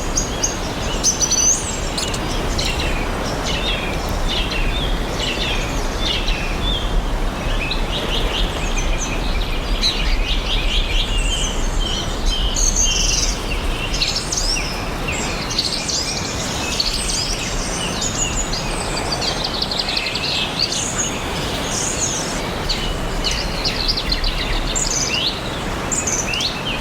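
Several songbirds chirping and singing over one another, with many short chirps and trills, over a steady low rumble of forest ambience.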